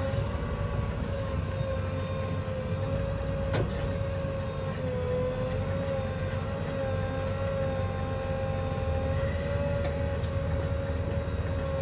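Heavy diesel engine of a JCB 3DX backhoe loader running steadily under work, with a low rumble and a high whine that wavers slightly in pitch. A single sharp click about three and a half seconds in.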